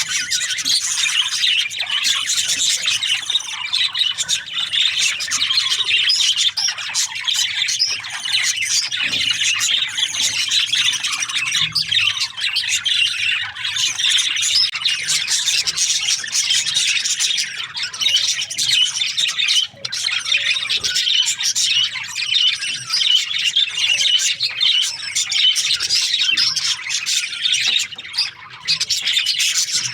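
A flock of budgerigars chirping and chattering, many calls overlapping in an unbroken stream.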